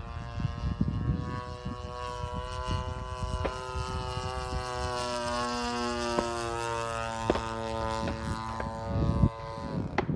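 Radio-controlled model airplane's engine and propeller droning steadily as the plane flies past, the pitch dropping partway through, over wind rumble on the microphone.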